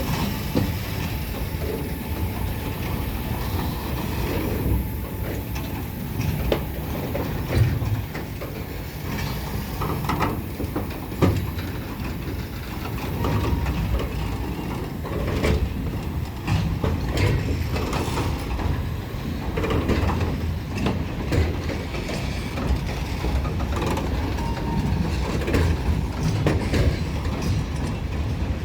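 Train running past on the rails: a steady low rumble of wheels on track with frequent clicks and knocks from the wheels and cars.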